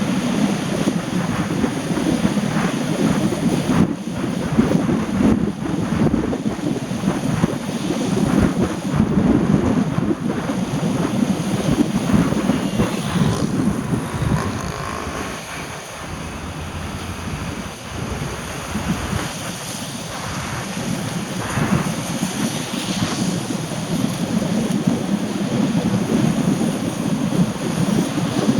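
Rain and wind noise, a continuous rough low rush that eases a little midway and picks up again toward the end.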